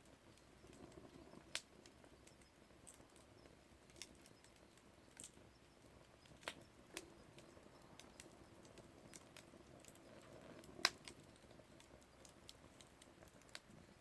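Campfire crackling: burning wood giving off faint, irregular sharp pops every second or two, with one louder pop about eleven seconds in.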